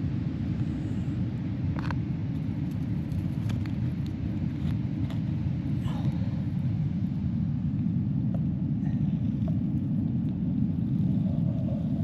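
Steady low outdoor rumble with no pitch, with a few faint short clicks scattered through it.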